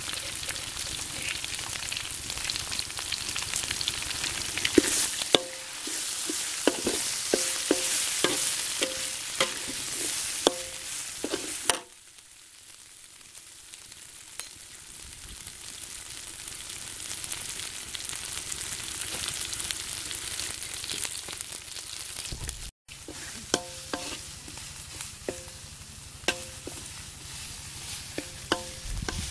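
Spice paste with chopped red chilies sizzling in hot oil in a steel wok. A metal ladle clinks and scrapes against the wok as the paste is stirred, in runs of about one or two clinks a second, with a quieter stretch of plain sizzling in the middle.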